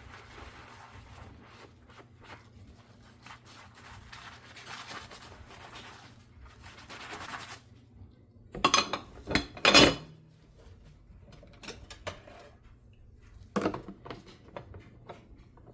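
Dishes and cutlery being handwashed in a sink: soft scrubbing, then a run of loud clinks and clatters of crockery and utensils knocking together about halfway through, with another clatter near the end.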